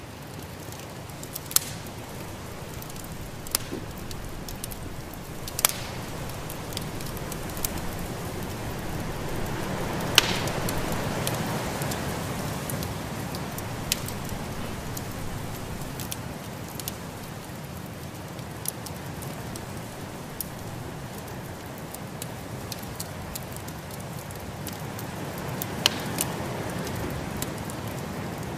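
Wood fire in a fireplace crackling, with sharp single pops every few seconds, over a steady rushing hiss of snowstorm wind that swells about ten seconds in.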